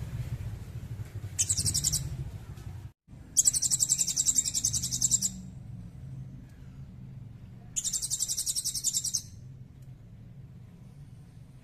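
Small songbird giving high, very rapid trilled calls in three bursts, the middle one about two seconds long, over a low steady hum.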